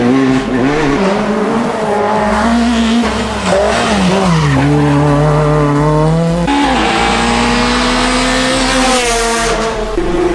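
Rally car engine revving hard through a stage, its pitch climbing and dropping with gear changes and off-throttle moments. From about six and a half seconds the engine note jumps up, with a rise in high hiss that suits tyres sliding on the road.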